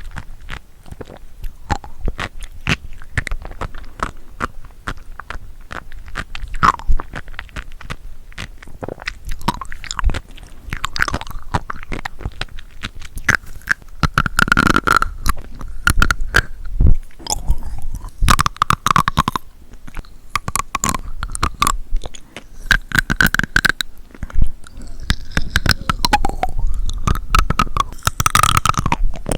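Close-miked chewing of seafood: a dense run of small crisp pops and clicks with wet mouth sounds between them.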